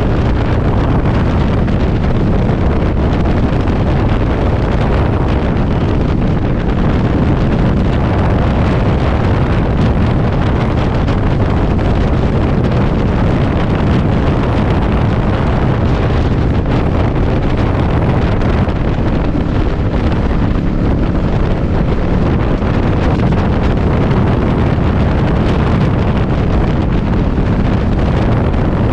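Heavy wind rumbling and buffeting over the microphone on a moving motorcycle, with the engine running steadily underneath.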